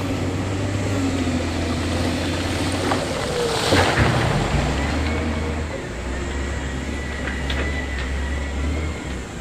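Heavy diesel engine of earthmoving equipment running steadily, with a brief loud rushing noise about three and a half seconds in, after which the engine note changes.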